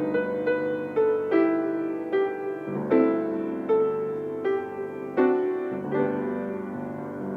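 Solo piano playing a slow, gentle postlude, notes and chords struck one after another about every half second to second.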